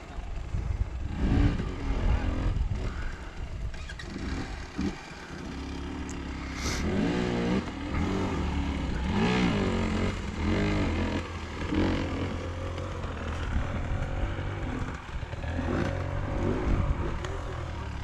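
Enduro motorcycle engine running under load, its pitch rising and falling repeatedly as the throttle opens and closes.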